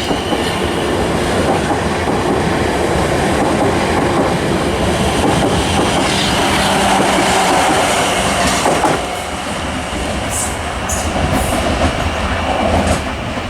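Class 444 electric multiple unit pulling out and running past and away, its wheels and motors making a steady loud rumble that drops off about nine seconds in. A few short high squeals from the wheels come near the end.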